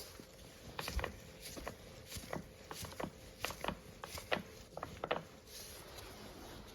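Muncie M20 four-speed manual transmission being turned over: a string of irregular mechanical clicks and rattles from its gears and bearings, with a faint steady hum over the first five seconds.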